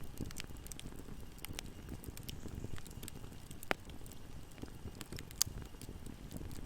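Fire burning in a fireplace, crackling steadily over a low rumble of flames, with many small snaps and two louder pops, about halfway and about two-thirds of the way through.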